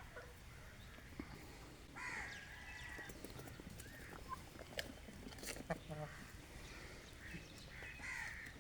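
Birds calling: short calls about two seconds in and again near the end, with a few sharp clicks in between.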